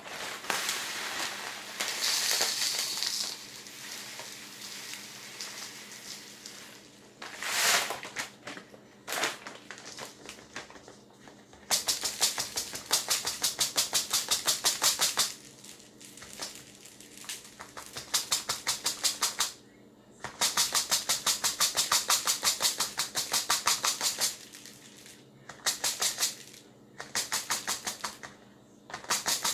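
Runs of rapid, even clicking, about ten clicks a second and a few seconds at a time, broken by quieter pauses and a few single knocks.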